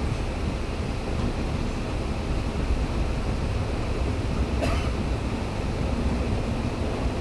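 A passenger train running at speed, heard from the coach doorway: a steady low rumble of wheels on the rails mixed with wind rushing over the microphone. One brief sharp clack a little past halfway.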